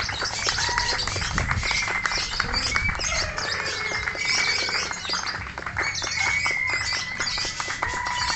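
Many caged lovebirds chattering at once: a dense, unbroken mass of shrill chirps and squawks, with a few longer whistled notes.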